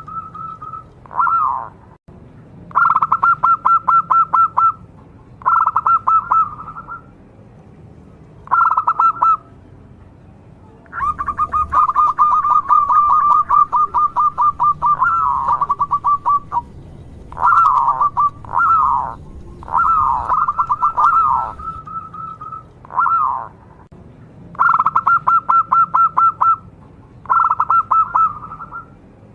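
Zebra dove (perkutut) singing: about eleven bursts of fast staccato cooing notes, each from half a second to a few seconds long, with short pauses between. The longest phrase runs about five seconds, starting a third of the way in.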